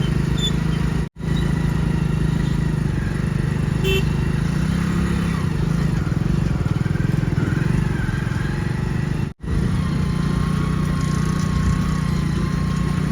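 A heavy machine's diesel engine running steadily, rising slightly in pitch for a moment about four to five seconds in. The sound cuts out for an instant twice.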